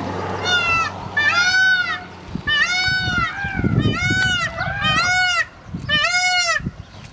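A bird giving a run of loud honking calls, about eight in all, each a short call that rises and falls in pitch, some overlapping as if from more than one bird.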